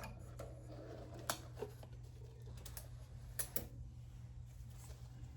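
Scattered light clicks and taps as the small, strong magnets are pulled off the metal lathe bed and the pleated bed cover is handled, over a faint steady low hum.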